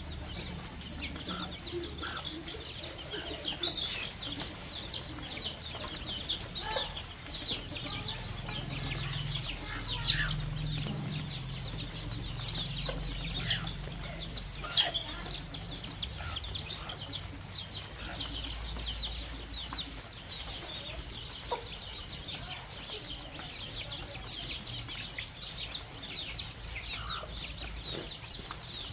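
Baby chicks peeping constantly, many short high peeps overlapping in a steady chorus, with a few sharp taps standing out, the loudest about ten and fifteen seconds in.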